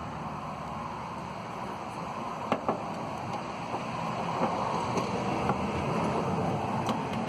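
Hand work on a car door's handle bolts: two sharp light clicks about two and a half seconds in, then a few fainter ticks, against steady outdoor background noise.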